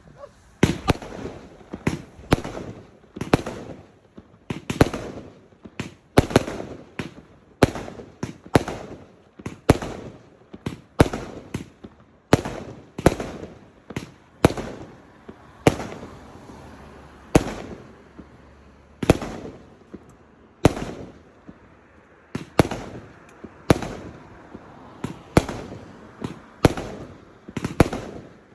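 Fireworks going off in a long, steady barrage: a sharp bang roughly every half second to second, each trailing off in a short echo.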